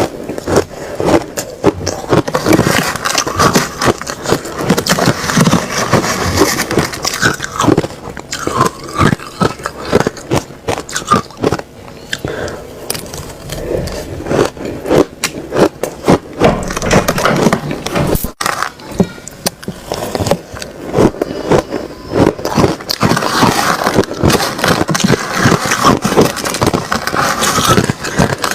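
Ice being bitten and chewed close to the microphone: a dense, irregular run of loud crunches, with a brief break about 18 seconds in.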